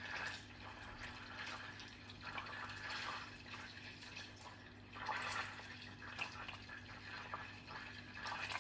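Water running from a kitchen tap, swelling and easing off a few times as things are rinsed under it, with small clinks. A steady low hum runs underneath.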